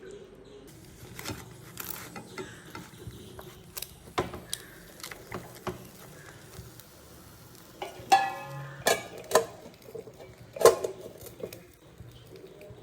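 Kitchen handling noises: scattered taps, knocks and scrapes of cookware and utensils, loudest in a cluster from about eight to eleven seconds in, with a brief squeal near eight seconds.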